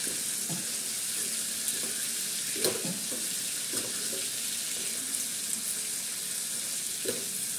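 Pieces of parwal (pointed gourd) sizzling in hot oil in a frying pan, with a spatula scraping and stirring through them a few times.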